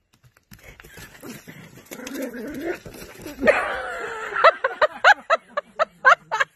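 Small fluffy dog barking excitedly: a rising noisy commotion, then a rapid run of short, high-pitched yaps in the second half.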